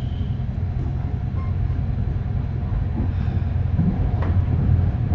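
Sleeper train running, heard from inside the carriage: a steady low rumble with a sharp click about four seconds in.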